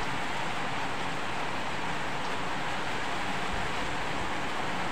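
Very heavy rain pouring down, a steady, even hiss with no let-up.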